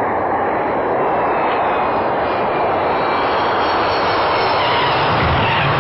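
Airliner jet engines running loud and steady as the plane flies low overhead.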